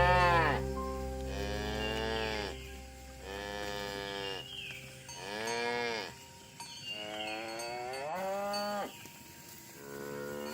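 Cattle mooing, about six long calls one after another, several rising and then falling in pitch.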